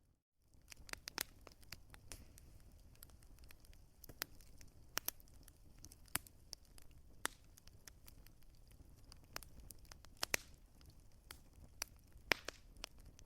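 Wood fire crackling: irregular sharp pops and snaps of burning logs over a soft, steady low hiss. The sound drops out for a split second at the very start.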